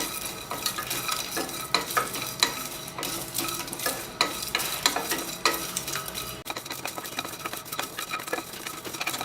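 Whole spices being dry-roasted in a pan and stirred with a spatula: irregular scraping and clicking of the spatula against the pan, over a light sizzle.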